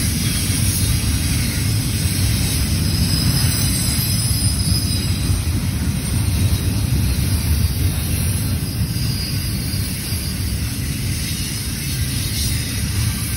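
Double-stack intermodal container cars of a freight train rolling past close by: a steady low rumble of steel wheels on the rails, easing slightly near the end.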